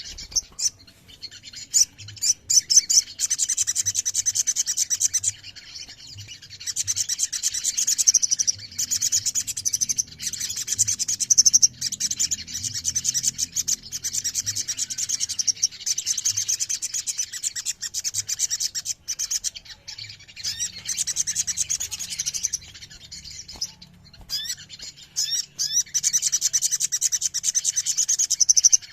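Several little spiderhunters (sogon) calling together: long, very fast, high-pitched trills, each run lasting several seconds, broken by short pauses.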